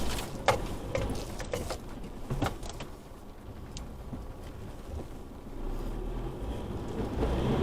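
Isuzu D-Max V-Cross pickup's diesel engine pulling at low revs as the truck crawls up a rocky off-road climb in second gear, low range, heard from inside the cab. Scattered sharp knocks and clicks sound over the steady rumble.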